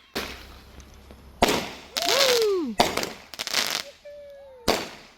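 Consumer fireworks going off: about five sharp bangs, with a stretch of crackling hiss in the middle.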